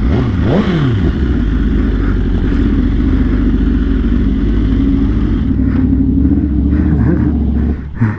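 Motorcycle engine running steadily at speed, its pitch briefly dipping and rising again about half a second in. The engine sound drops away near the end.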